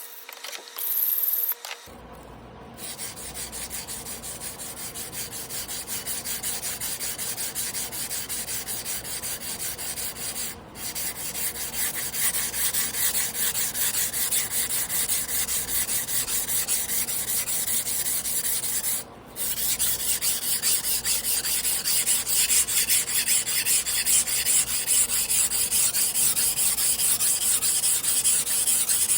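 Damascus carbon-steel sashimi knife being hand-ground on a whetstone: rapid, even back-and-forth strokes of steel scraping on stone, broken by two short pauses.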